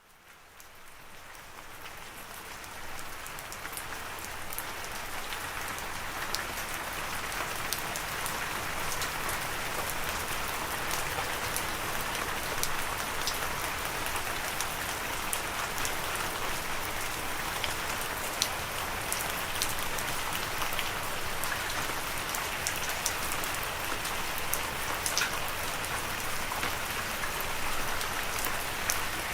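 Steady rain falling on a surface, with many small individual drops ticking through the hiss; it fades in over the first few seconds.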